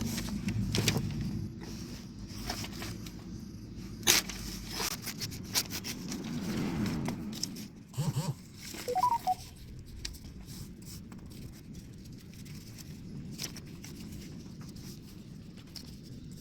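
Sheet of paper being folded and creased by hand: irregular crackles and rustles, with the sharpest crackles about four seconds in and around eight to nine seconds in, over a steady low background hum.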